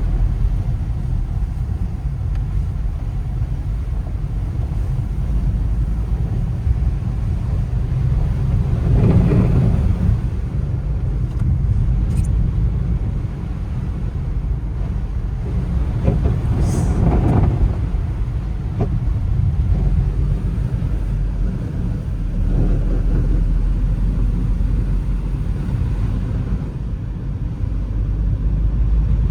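Car driving, a steady low rumble of engine and road noise, with two short swells, about a third of the way in and again a little past halfway.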